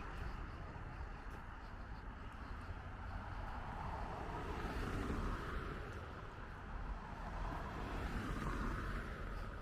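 City street traffic: cars passing, their noise swelling and fading twice.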